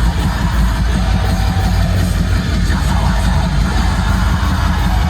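Metalcore band playing loud and live: distorted electric guitars over heavy bass and drums, mostly instrumental, with a dense, steady wall of sound weighted toward the low end.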